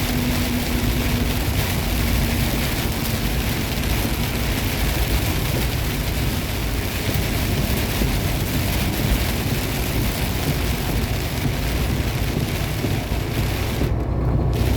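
Steady engine and road noise inside a semi-truck cab on a wet road, with a hiss of rain and tyre spray; the hiss cuts out for a moment near the end.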